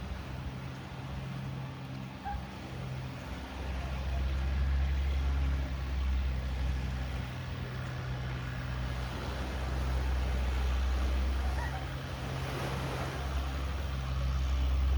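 An engine running steadily at low speed, a deep hum that dips for a moment now and then.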